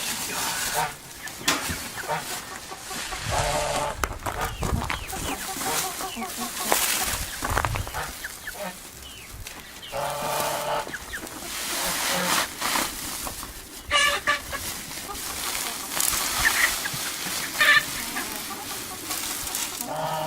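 Farmyard chickens clucking in short, irregular calls, with a few longer drawn-out calls from another farm animal.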